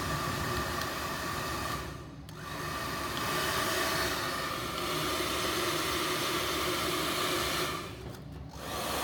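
Hair dryer running with a steady rush of air and motor whine. It cuts out briefly twice, about two seconds in and near the end, then comes back.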